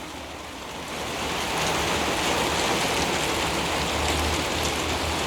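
Heavy rain falling in a steady hiss, growing a little louder about a second in.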